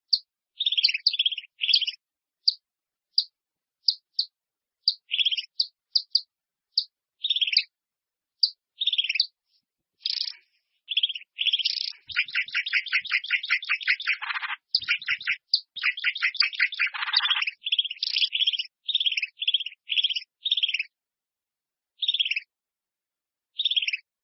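A small bird chirping: short, sharp notes that mostly slide downward, coming singly or in pairs, with a fast, dense run of rapid notes in the middle.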